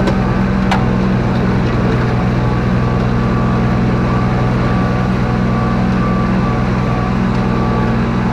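Kubota RTV utility vehicle's engine running steadily under load as it climbs a steep, slick hill, its tyres spinning for grip. Two brief clicks near the start.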